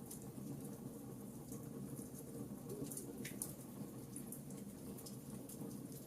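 Wood fire in a fireplace crackling, with scattered sharp pops over a low steady rumble of the flames; one pop about three seconds in stands out.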